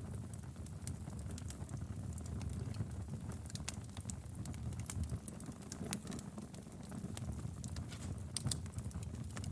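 Wood fire burning in a fireplace: a steady low rumble of flames with irregular sharp crackles and pops, a small cluster of louder pops about eight seconds in.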